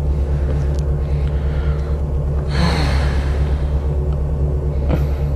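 A 1997 Subaru Impreza's swapped-in WRX turbocharged flat-four idling steadily, heard inside the cabin. A brief breathy hiss comes about two and a half seconds in.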